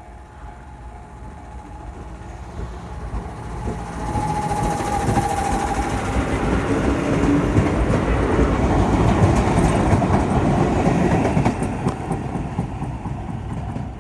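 Chichibu Railway train passing over a level crossing, growing louder to a peak about nine to ten seconds in and then fading, its wheels clattering over the rails. The crossing's warning bell rings in quick repeated strokes, heard plainly near the start and again near the end.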